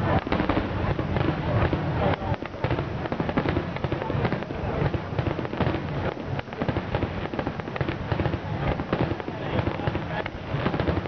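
Fireworks display: aerial shells bursting in a dense, unbroken run of bangs and crackling.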